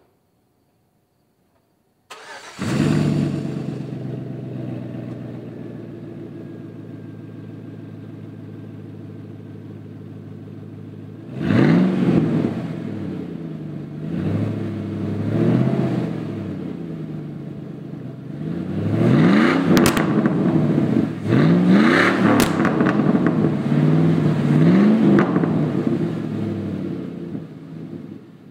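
2003 Chevy Silverado V8 with freshly installed dual glasspack mufflers starting up about two seconds in with a brief flare, then idling steadily. After about 11 s it is revved again and again, each rev rising and falling, before settling back toward idle near the end.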